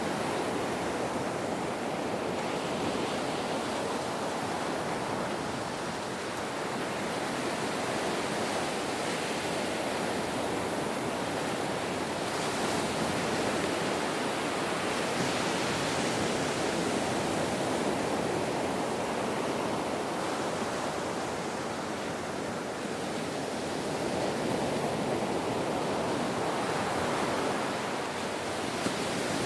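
Ocean waves washing onto a shore in a continuous surf, swelling and easing slowly every several seconds.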